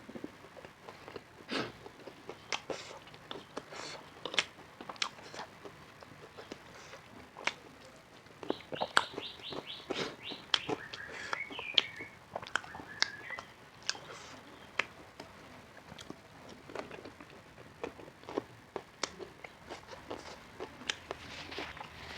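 Close-up eating sounds: biting and chewing food with many sharp, crisp crunches. In the middle, for a few seconds, a high chirping sound joins in.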